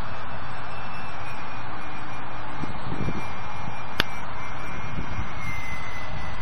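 Strong wind rushing over the microphone in a steady roar of noise. Under it is a faint, high whine from the small electric motor and propeller of a flying RC plane, drifting in pitch. There is one sharp click about four seconds in.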